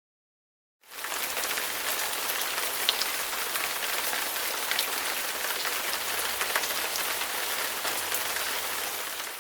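Rain falling steadily on a surface, an even hiss of many drops with scattered sharper drop ticks. It starts about a second in and begins to fade near the end.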